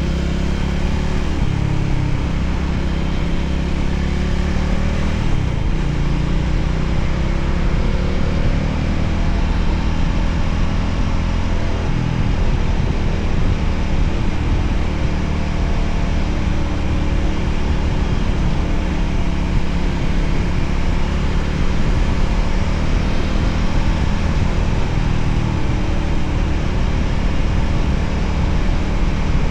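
Voge 300ACX motorcycle's single-cylinder engine running on the move over a steady low rumble, its pitch gliding up and down a little as the speed changes.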